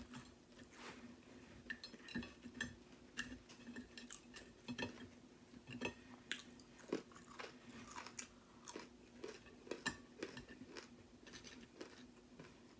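Close-miked chewing of breakfast food, with irregular wet mouth clicks and crunchy bites, over a faint steady hum.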